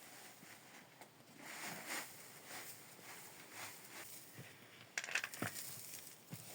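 Faint rustling and handling noises with scattered soft clicks, then a short burst of sharp clinks about five seconds in.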